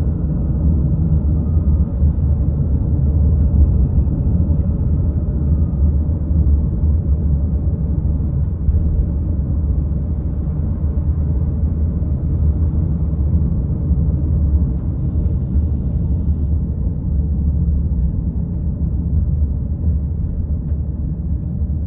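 A car driving along: a steady low rumble of road and engine noise with no marked change.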